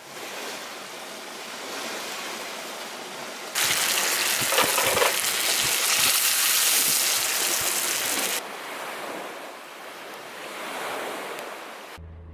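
Steady rain falling, an even hiss that jumps louder about a third of the way in and drops back abruptly a few seconds later.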